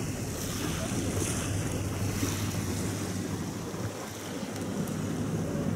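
Wind buffeting the microphone outdoors, a steady low rumble with no distinct events.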